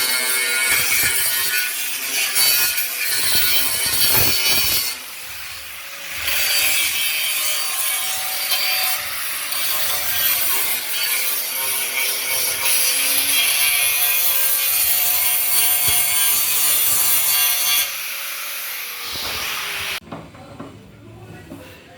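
Rough abrasive rasping of a tool working a surface, as in sanding or sawing. It eases briefly about five seconds in and stops abruptly about twenty seconds in.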